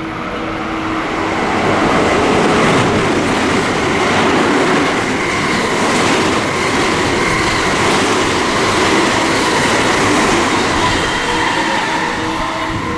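A train passing through a station platform without stopping: the rush of wheels on rail with some clickety-clack, building over the first two seconds, holding steady, and easing off near the end.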